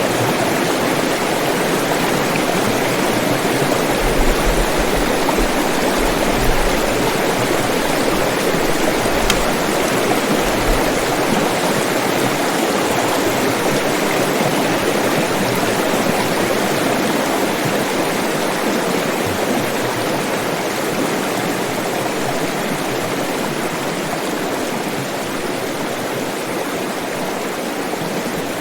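Water flowing in a stream: a steady rushing, burbling noise, with a low rumble underneath from about four to eleven seconds in, easing slightly toward the end.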